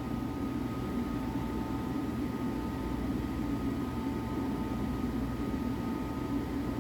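Steady machinery hum: a low rumble under a few faint, steady whine tones, unchanging throughout.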